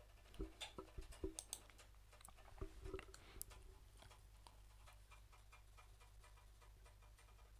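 Faint scattered clicks of a computer mouse and keyboard, a dozen or so in the first three and a half seconds, then only a low steady hum.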